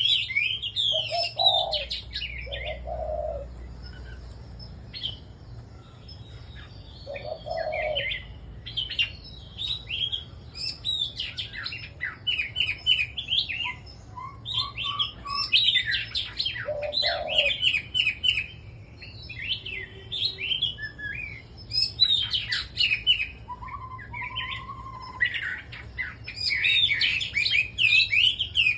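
Several caged red-whiskered bulbuls singing together: overlapping bursts of quick, chirping warbled phrases, with a few short low notes in between.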